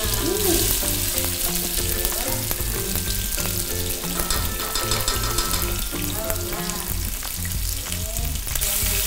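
Pounded spice paste sizzling steadily in hot oil in a wok and being stirred with a spatula: the aromatics being sautéed until fragrant.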